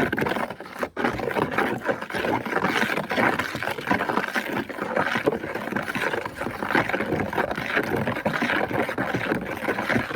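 A spoon stirring water and plant bits in a container: continuous sloshing with quick, irregular scrapes against the container.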